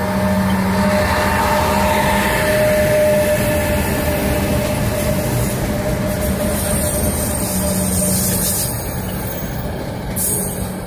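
A lashup of GE ES43BBi diesel-electric freight locomotives passes close by, a loud steady engine drone and rumble with a sustained hum. Near the end the locomotives give way to loaded hopper wagons rolling past.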